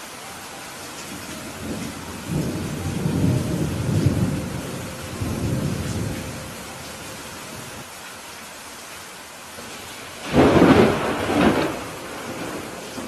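Steady rain with a long rolling rumble of thunder starting about two seconds in, then a louder, sharper thunderclap about ten seconds in.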